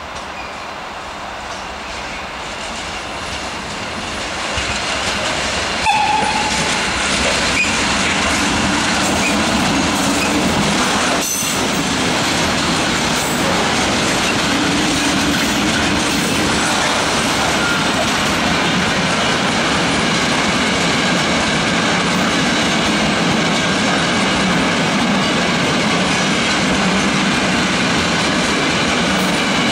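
A freight train hauled by a DB class 140 electric locomotive approaching and passing, growing louder until the locomotive goes by about six seconds in with a sharp knock. After that the wagons keep rolling past with a steady rumble and wheel clatter over the rails, with another sharp knock near the middle.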